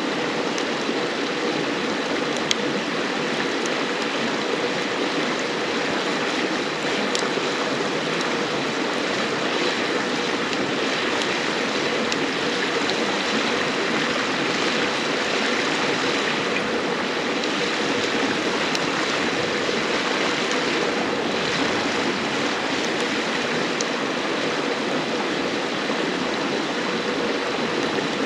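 A river flowing with a steady rushing murmur. A few sharp pops from a burning wood campfire come through, the loudest about two and a half seconds in.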